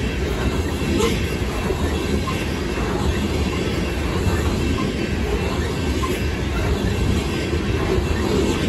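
Loaded coal hopper cars rolling past close by: a steady rumble of steel wheels on rail, with a faint high squeal from the wheels.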